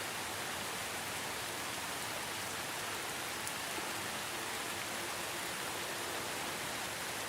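Steady rain falling, an even hiss of many fine drops without pauses or thunder.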